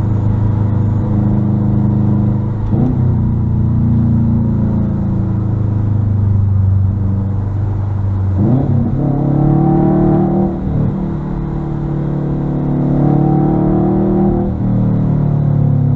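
2021 Subaru WRX STI's turbocharged flat-four engine running through a muffler-deleted exhaust: a loud, steady drone whose pitch shifts sharply about three seconds in, about halfway and again near the end.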